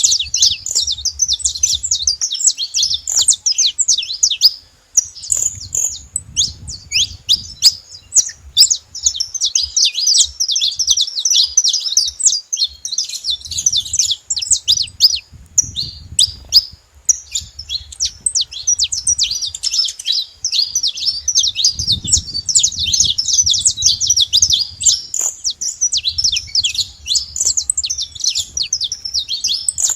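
Saffron finch song: a dense, continuous stream of rapid, high chirps and trills.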